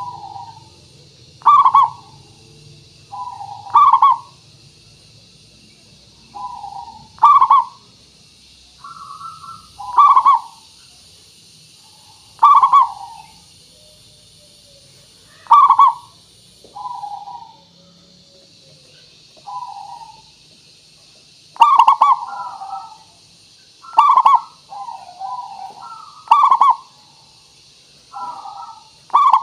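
Zebra doves (perkutut) cooing: repeated short coo phrases every two to three seconds, often a softer note followed by a louder, sharper one. The calls come faster and overlap in the last third, over a faint steady high hiss.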